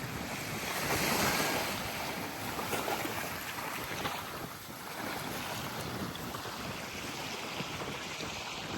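Small waves washing onto a sandy shore, one surge swelling about a second in, with wind buffeting the microphone.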